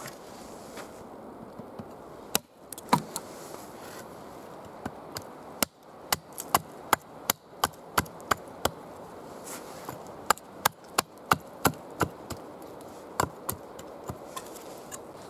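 Wood being chopped with a hand tool: sharp strikes, a couple of single blows, then two quick runs at about three strokes a second.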